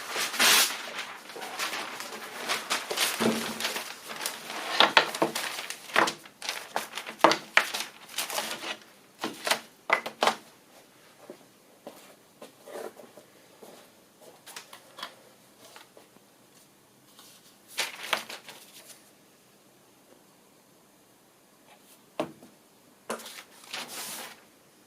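Irregular handling noises of tools and materials being moved: a busy run of knocks, clatter and rustling in the first ten seconds, then scattered knocks and short rustles with quiet gaps between.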